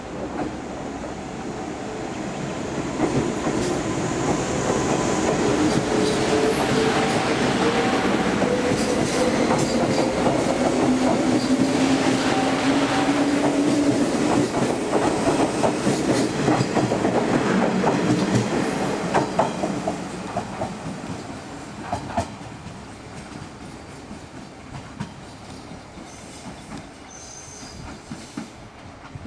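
Electric train running past: a motor hum rising in pitch as it gathers speed, over wheel rumble and clattering on rail joints. It builds up, stays loud for a while, then fades away.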